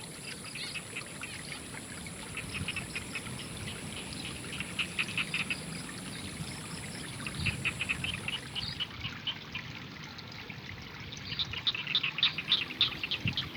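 Rice-paddy ambience: water trickling steadily, with frogs calling in quick trains of short notes that grow louder near the end.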